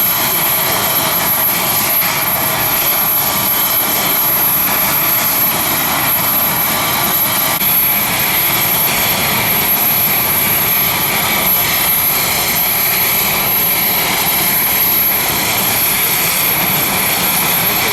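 Leonardo AW249 Fenice attack helicopter in flight: its twin turboshaft engines and rotor make a loud, steady noise.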